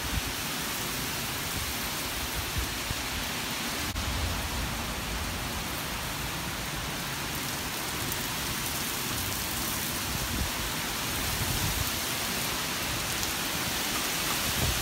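Heavy rain pouring down in a storm downdraft: a steady hiss of rain, with gusts of wind rumbling on the microphone, growing a little louder near the end.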